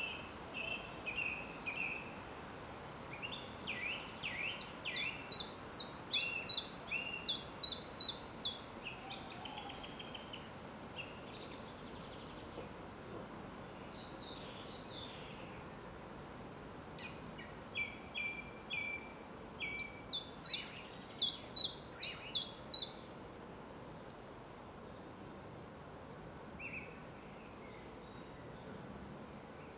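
A songbird singing two long phrases of loud, quickly repeated high notes, the second about twelve seconds after the first, with a few shorter calls between, over a steady background hiss.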